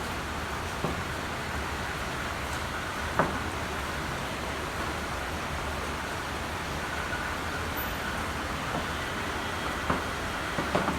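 Steady rain falling, an even hiss, with a few sharp taps, the clearest about three seconds in and two near the end.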